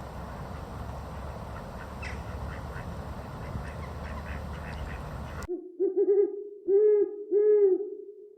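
Steady rushing noise with a few faint high chirps that cuts off suddenly. Then an owl hoots: a quick run of short hoots, then two longer hoots.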